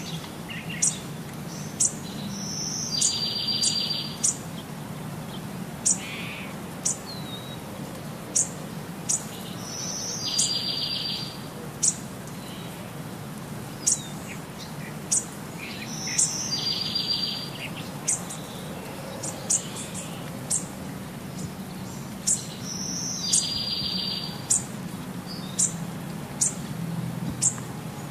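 Birds chirping: short high chirps about once a second, and a whistle followed by a buzzy trill of about a second that comes back every six to seven seconds, over a steady low hum.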